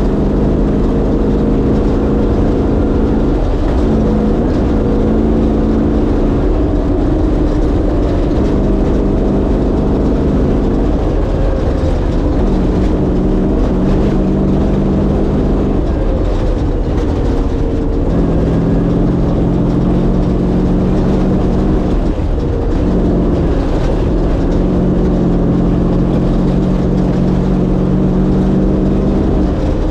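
1967 Ford Bronco's 363 stroker V8 running under way, with a constant low rumble underneath. The engine note shifts up and down several times as throttle and speed change.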